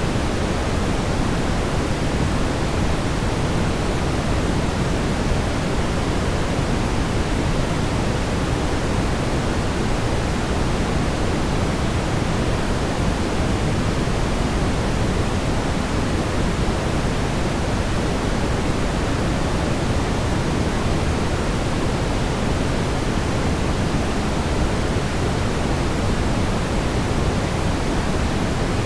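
Brown noise: a steady, even rumbling hiss, heaviest in the low end, that does not change.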